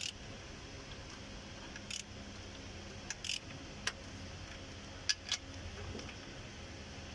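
A few sparse, sharp metallic clicks and clinks of hand tools over a low steady hum, with a pair of clicks about five seconds in, as the oil seal installer tool is being unbolted from the crankshaft.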